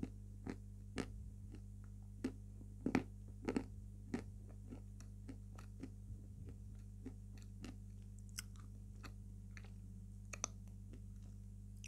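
A person chewing dry edible clay: scattered soft crunches and mouth clicks at irregular intervals, with short pauses, over a steady low hum.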